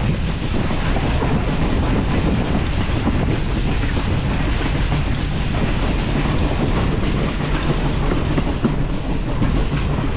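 Excursion train hauled by steam locomotive Little River Railroad #110, running steadily along the track, heard from aboard: a loud, even rumble and rattle of the moving cars on the rails.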